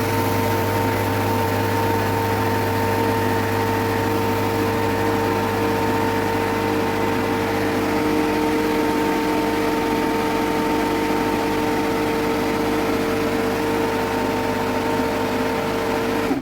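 Refrigerant recovery machine running steadily, its compressor and fan motor giving a low hum and a steady whine, then cutting off suddenly at the very end.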